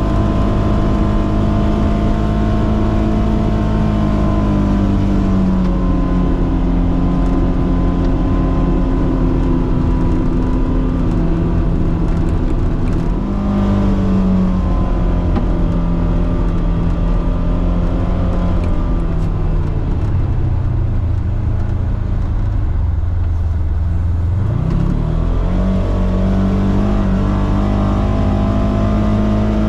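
Polaris Xpedition side-by-side's engine running as it drives, its pitch mostly steady, then sinking low about twenty seconds in and climbing back up a few seconds later as the revs drop and pick up again.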